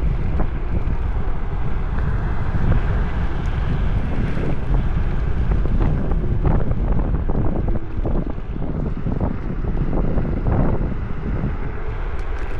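Wind rushing over an action camera's microphone on a moving electric scooter, with a steady low rumble and a few scattered knocks and rattles.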